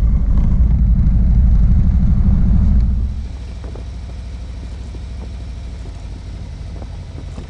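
Harley-Davidson V-twin motorcycle engine running with a loud, low rumble, dropping to a quieter, steadier level about three seconds in.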